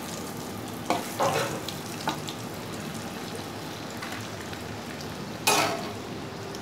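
Flour-coated chicken drumstick sizzling steadily in hot oil in a metal kadai on a low flame, the first half-fry. A steel spatula turns it, scraping and knocking against the pan a few times, loudest about five and a half seconds in.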